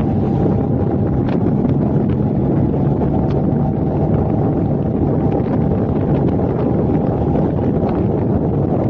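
Steady driving noise from a moving car, road and engine rumble with wind buffeting the microphone, and scattered faint clicks.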